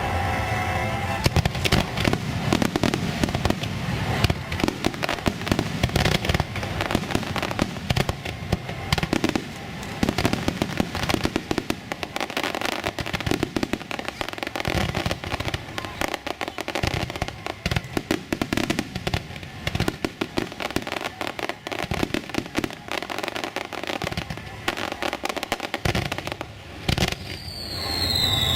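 Aerial fireworks display: a dense, continuous run of bursts and crackles, with a falling whistle near the end.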